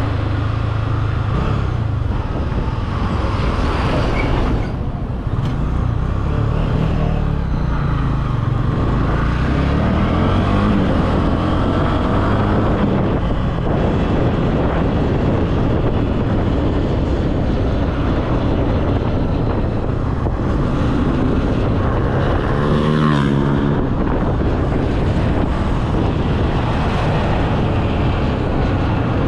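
Honda CB300F's single-cylinder engine running steadily while the bike is ridden, its pitch stepping up and down a few times with the throttle and gears, with wind noise on the microphone.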